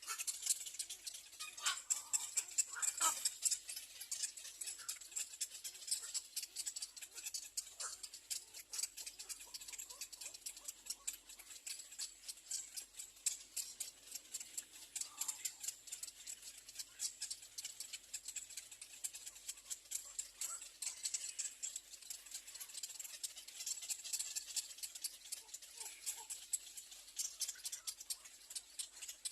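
Little egret nestlings begging for food: a continuous rapid, high-pitched clicking chatter, with a few brief fainter calls among it.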